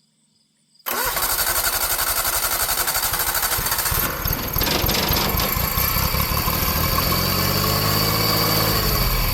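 The Yanmar three-cylinder gas engine of a 1988 John Deere 322 garden tractor being cranked over by its starter, starting about a second in, on a shot of ether sprayed in to test for spark. Partway through it fires on the ether and runs briefly, which shows the ignition has spark.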